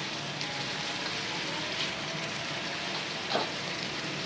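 Chicken pieces sizzling steadily as they fry in ghee with browned onion and ginger-garlic paste, with a couple of light knocks in the pan.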